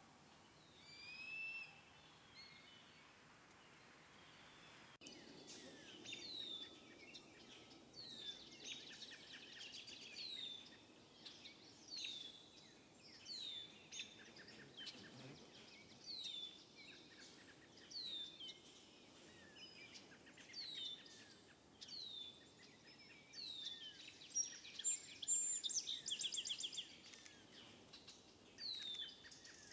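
Small birds calling: a short, high, downslurred chirp repeated about every second and a half, with bursts of rapid trilled notes near the end, the loudest part.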